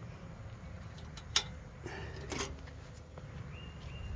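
Latches on a Delta 28-180 bench band saw's wheel cover being unclipped and the cover opened: one sharp click a little over a second in, then a couple of softer clicks.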